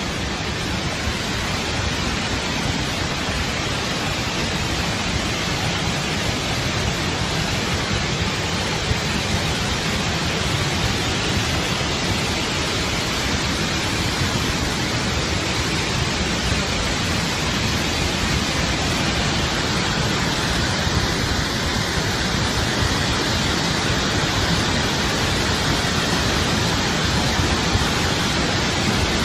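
Floodwater rushing, a steady loud roar of water with no breaks.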